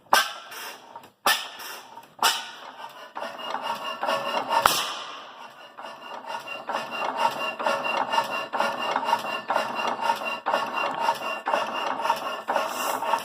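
Old Fairbanks Morse engine starting: a few sharp knocks, a sudden loud burst nearly five seconds in, then the engine settling into a steady, rhythmic running beat.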